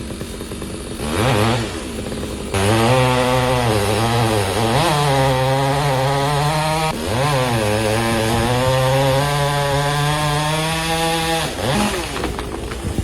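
Chainsaw engine running, its pitch rising and falling a few times as it is revved and loaded, then dropping away near the end.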